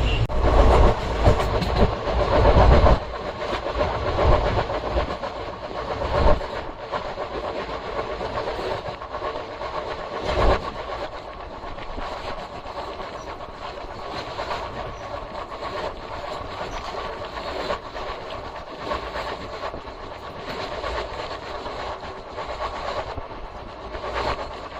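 Moving train running on the track: a steady rumble of wheels on rail with clickety-clack and occasional knocks. It is loudest and deepest for the first three seconds, then settles to a quieter, even run.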